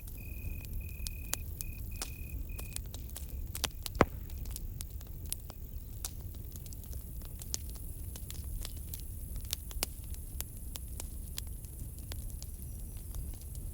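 Campfire crackling, with scattered sharp pops and one loud pop about four seconds in, over a steady low rumble. A cricket chirps in short, evenly repeated trills for the first few seconds, then stops.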